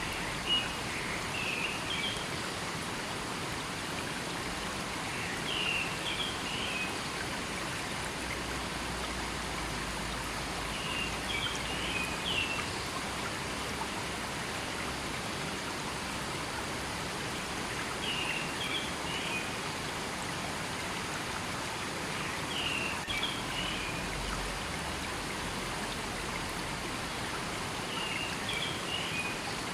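A river or stream flowing steadily, with a bird singing a short phrase of chirps about every five to six seconds, six times over.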